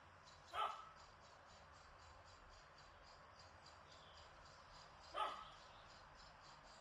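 A dog barking twice, single short barks about four and a half seconds apart, over a faint breeze and a fast, steady, high-pitched chirping.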